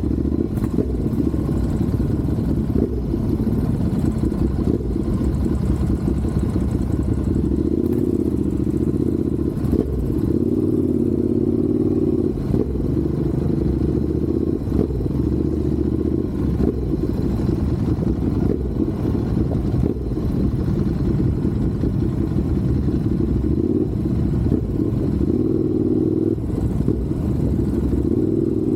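Motorcycle engine running steadily at speed, its pitch wavering a little, over a continuous low rumble.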